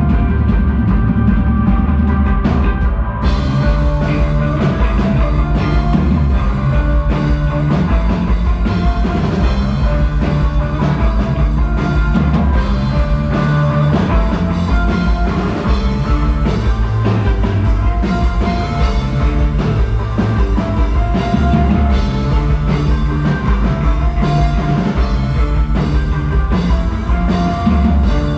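Rock band playing live, an instrumental passage with drum kit and no singing; the sound brightens and fills out about three seconds in.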